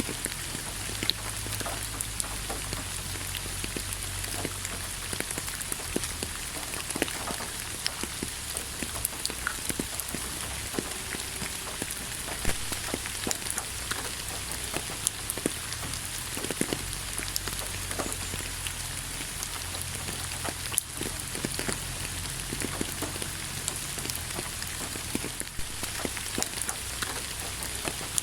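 Steady rain falling, with many separate drops striking close by over an even hiss.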